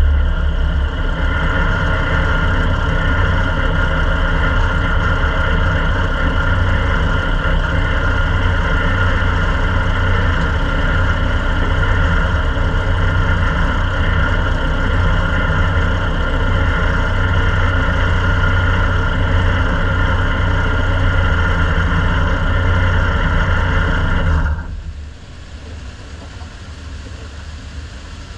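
Ministock race car engine idling steadily, heard from inside the car. It cuts off suddenly about 24 seconds in, leaving a quieter engine noise running.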